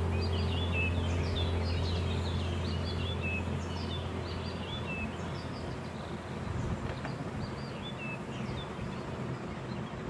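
Small birds chirping: many short, high calls through the first half, thinning to a few near the end. A steady low hum fades out about halfway through.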